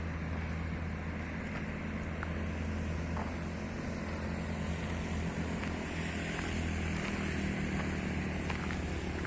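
A motor running steadily: an even low drone with a constant hum, and a few faint clicks over it.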